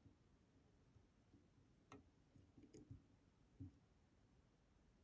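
Faint, sparse clicks and soft knocks of a picking tool turning the discs inside a DOM Diamant disk detainer lock, against near silence. Two sharp clicks come about two seconds and about three seconds in.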